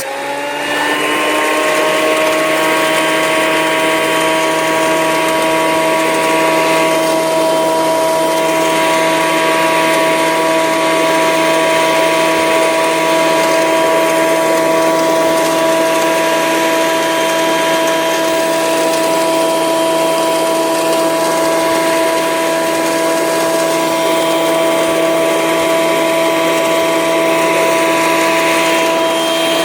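Small electric wood planer running with a steady motor whine and the hiss of its cutter head on a board; the pitch dips at the start and climbs back within about a second, then holds steady.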